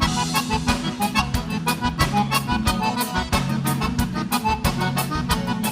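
Live gaúcho dance band playing an accordion-led instrumental passage between sung verses, over a steady drum beat and bass.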